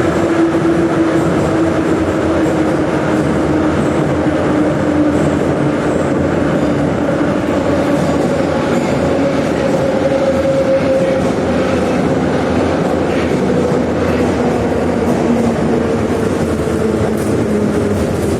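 81-717/714 'Nomernoy' metro train running between stations, heard from inside the car: a steady rumble of wheels on rails under a motor whine that slowly falls in pitch as the train slows for the next station.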